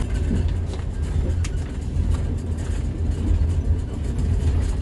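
Steady low rumble of a moving passenger train, heard from inside the carriage, with a faint click about a second and a half in.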